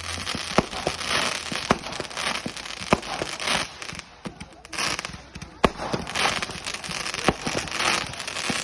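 Fireworks going off: a dense crackling and fizzing with a string of sharp bangs at irregular intervals, several of them louder reports.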